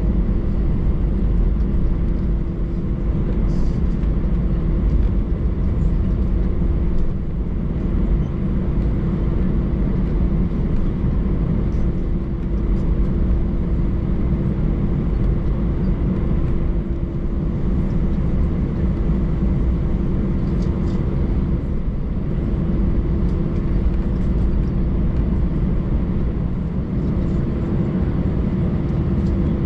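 Steady cabin rumble inside an Airbus A319 airliner on the ground, with a constant hum running through it that drops out briefly twice.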